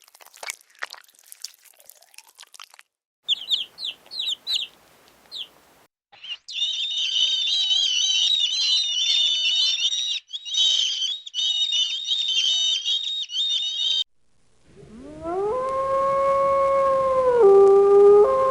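Crunching clicks of chewing, then short high chirps and a long stretch of dense, high-pitched peeping from a group of small birds, likely chicks. Near the end a dog starts a long howl that dips briefly in pitch.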